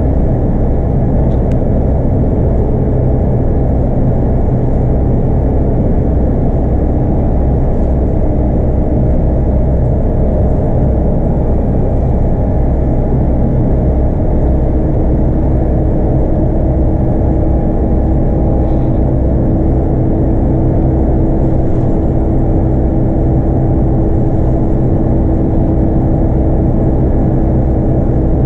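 Scania K230UB bus under way, its 8.9-litre five-cylinder DC9 diesel engine running steadily with road and tyre noise, heard from inside the bus. A steady higher hum comes in about halfway through.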